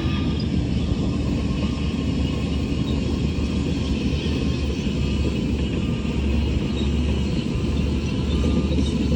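Heavy diesel engine of earthmoving machinery running steadily under load, a continuous low rumble.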